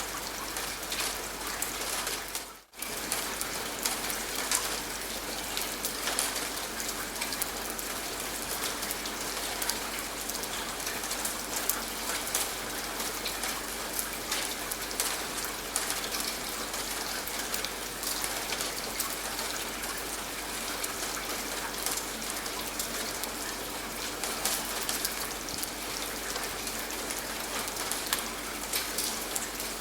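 Steady rain falling, an even hiss dotted with the ticks of individual drops. The sound cuts out for a split second about two and a half seconds in, then carries on unchanged.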